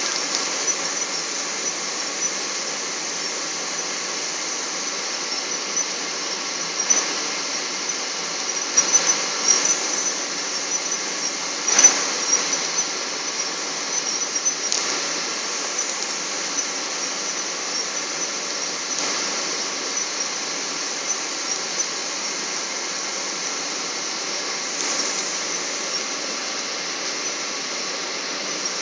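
Steady engine and airflow noise inside the cabin of a Boeing 777, a constant even rush, with a few short clicks and crackles about a third of the way through.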